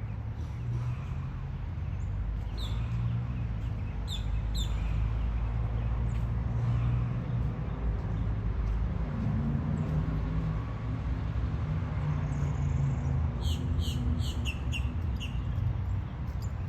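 Short high chirps of a small bird: a few about three and four seconds in, then a quick run of them near the end, over a steady low rumble.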